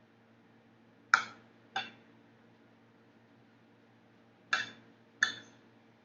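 Eating utensil clinking against a dish, four sharp clinks in two pairs with a short ring after each.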